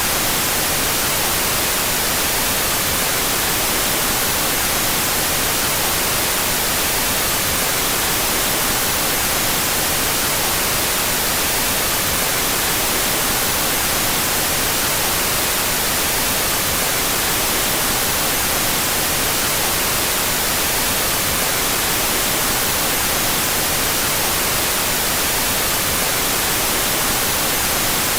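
Steady synthetic white noise, an unchanging hiss brightest in the high end, with its left and right channels out of phase.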